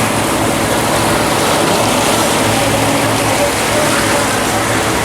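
A cruise boat underway: a steady loud rush of water and wind with a low engine drone beneath it.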